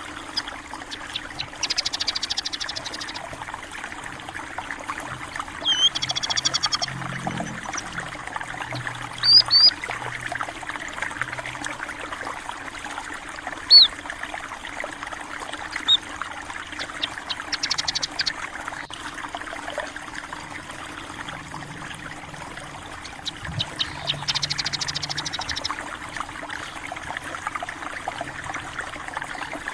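Small stream trickling steadily, with small birds chirping over it: several short, high trills and single chirps spread through.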